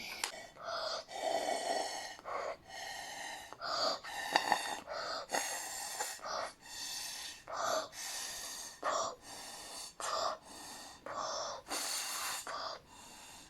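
Slime being squeezed and worked by hand, giving a run of short squelching, crackling clicks as trapped air pops out, about one a second.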